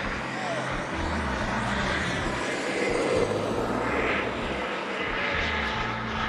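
Turbine engine of a radio-controlled model jet in flight, a steady jet rush that swells as it passes about four seconds in. Wind buffets the microphone throughout.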